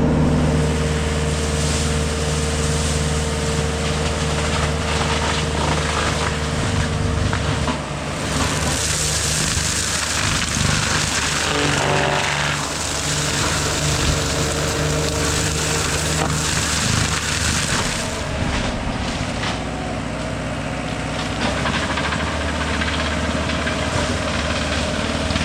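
JCB Teleskid 3TS-8T track loader's diesel engine running at working throttle and driving a FECON forestry mulcher head, with a steady hum. From about eight seconds in, a harsh rushing noise from the mulcher chewing into brush and wood rises over it and eases off again after about ten seconds.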